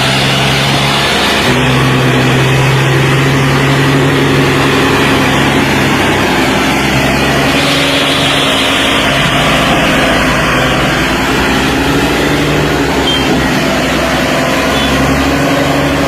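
Tractor engine running steadily; its pitch steps up and down a few times.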